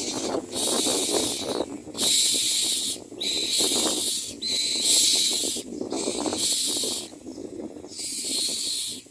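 Common myna nestlings begging for food: harsh, hissing calls repeated about once a second, each lasting most of a second, with rustling beneath.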